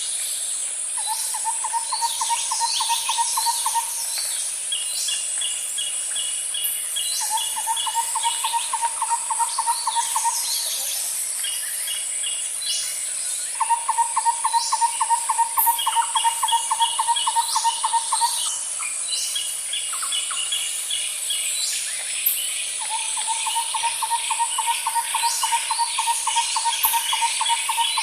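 Nature ambience: a steady high-pitched insect drone, with scattered bird chirps and short high trills. A low, even, rapid trill lasting several seconds comes four times.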